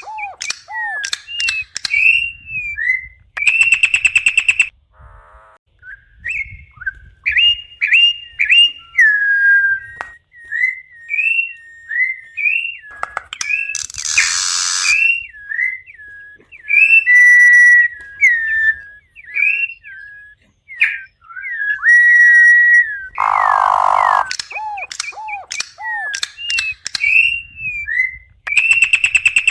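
Campo troupial (corrupião) singing a long run of clear, loud whistled notes, some gliding up and down. Three short, harsh, noisy bursts break in.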